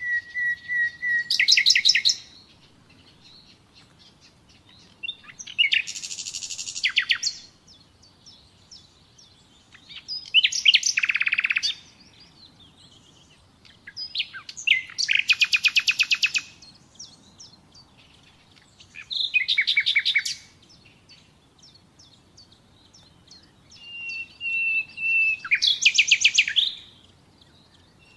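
Nightingale singing: separate phrases of about two seconds with short pauses between them, six in all. Each phrase is built of a held whistled note or fast runs of rapidly repeated notes.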